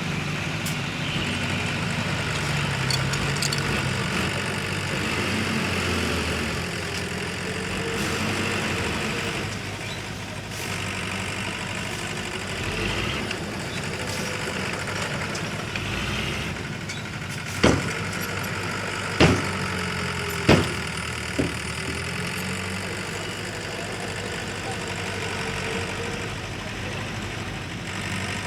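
Heavy diesel earthmoving machinery running steadily, with four sharp knocks about a second apart a little past the middle.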